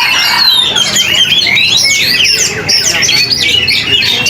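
Oriental magpie-robin (kacer) in full song: a rapid, unbroken run of varied whistles, slurred glides and chattering notes.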